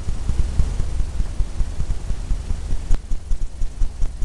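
Paintbrush dabbing and scrubbing against a stretched canvas, heard as a rapid, uneven run of soft low thuds.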